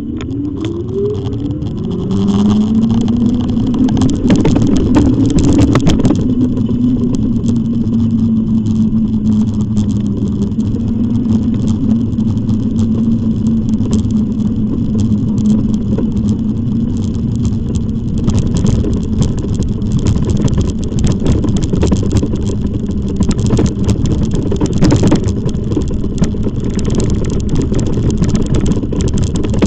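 Riding an e-bike: steady rumble of wind and tyres on the microphone, with frequent clattering knocks from bumps along the path. A steady hum rises in pitch over the first few seconds, holds, and fades about two-thirds of the way through.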